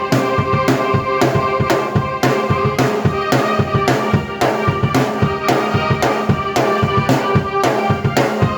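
Drum kit and keyboard playing an original piece together: a steady beat of about two strong drum hits a second under sustained keyboard chords.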